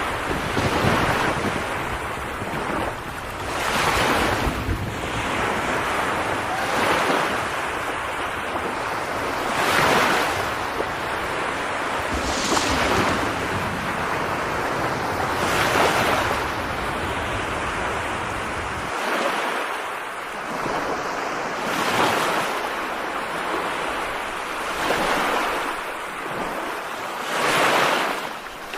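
Steady rushing water noise with wind, swelling and easing every few seconds. The low rumble thins out about two-thirds of the way through.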